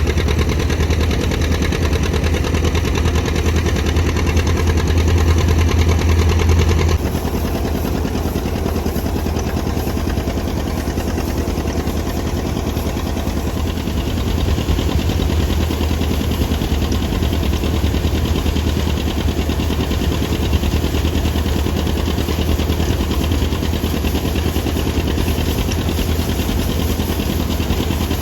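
Tractor engine running steadily. About seven seconds in the sound shifts and becomes a little quieter, then carries on evenly.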